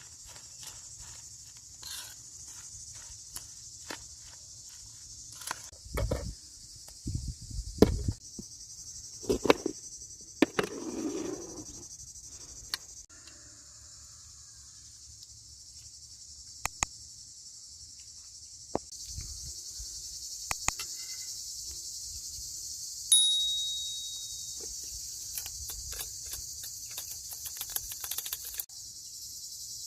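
Insects chirring steadily in a continuous high-pitched chorus, with scattered clicks and knocks of handling, a few low thumps in the first half, and one sharp metallic clink about 23 seconds in that rings and fades.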